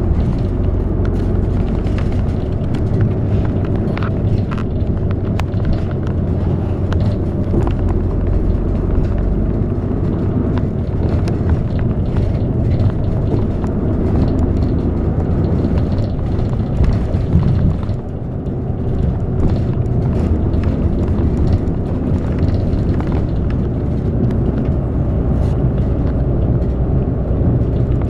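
City bus heard from inside the cabin while driving: a steady low engine and road rumble, with a few light clicks and rattles and a short dip in level about two-thirds of the way through.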